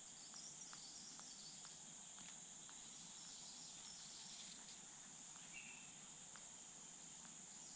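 Faint outdoor ambience with a steady high-pitched insect drone, like crickets. A few soft ticks and brief faint chirps sound over it.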